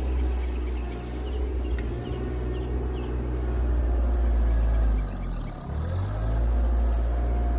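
Diesel engine of an RK24 compact tractor running steadily, its pitch dipping briefly about five seconds in and then rising back.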